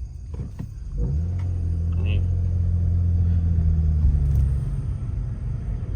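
Car exhaust droning with a loud, steady, low cow-like tone while driving. It comes in about a second in and fades after about four and a half seconds. The owner suspects an exhaust leak, caused by debris from a run-over deer that is lodged under the exhaust.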